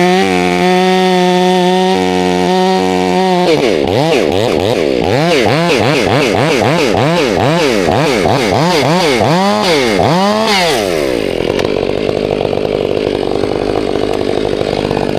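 Two-stroke chainsaw held at high revs for a few seconds, then revved up and down over and over at about two blips a second, before dropping back to idle about eleven seconds in.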